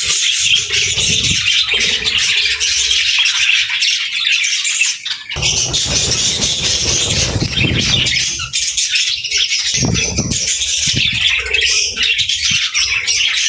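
A group of budgerigars chattering and warbling continuously, with low rumbling sounds coming and going beneath the chatter.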